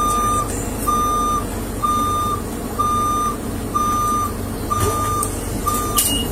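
Truck's reversing alarm beeping steadily, about one beep a second, over a low engine rumble.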